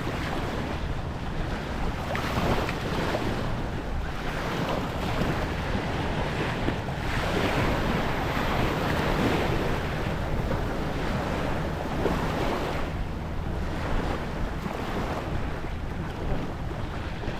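Small waves washing onto the shore, swelling louder a couple of times, with wind rumbling on the microphone.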